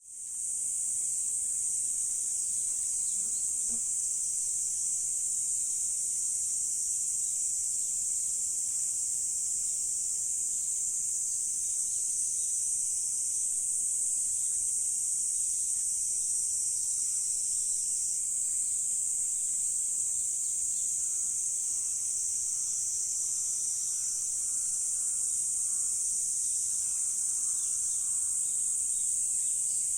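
Steady, dense chorus of insects: one high, continuous shrill that fades in at the very start and holds unbroken.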